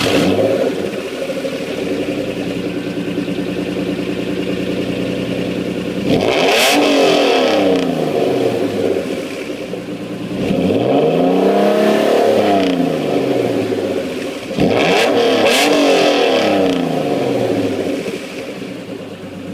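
Honda NSX V6 engine idling, then revved three times, each rev climbing in pitch and dropping back to idle.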